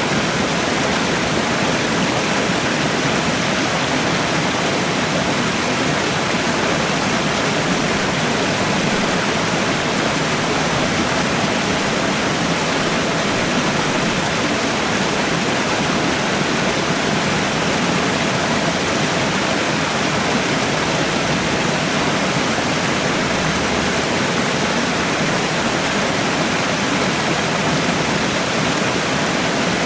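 Waterfall: water pouring down steadily in an even, unbroken rush.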